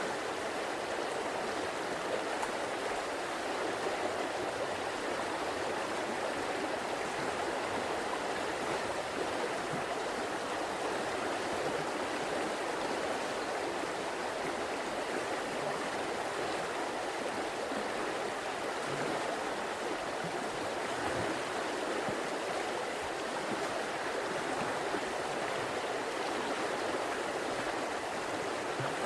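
A river or stream flowing, a steady rushing of water with no breaks or distinct splashes.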